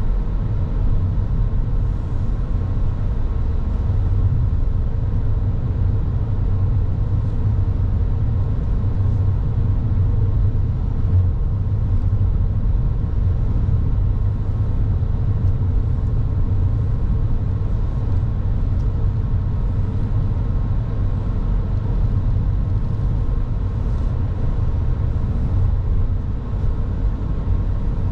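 Car driving along a road, heard from inside the car: a steady low rumble of road and engine noise.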